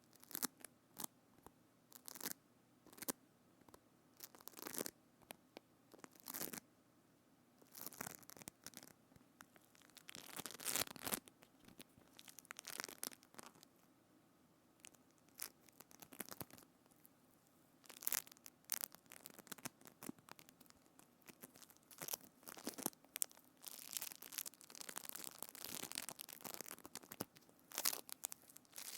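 Close-miked ASMR trigger sounds on a binaural microphone: a string of sharp taps and clicks, then longer crackling, sticky handling passages.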